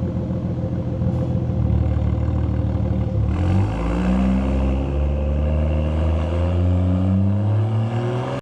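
BMW X3 M40i's turbocharged 3.0-litre inline-six with the muffler deleted, running at a steady note, then from about three seconds in its pitch climbs steadily as the engine pulls up through the revs.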